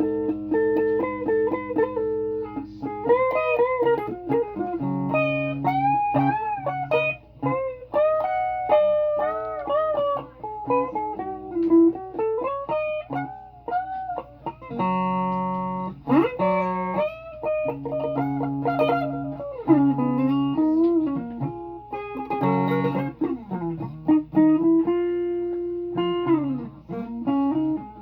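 Guitar played solo, mostly single sustained notes with pitch bends and wavering vibrato, and a few chords struck near the middle and again later.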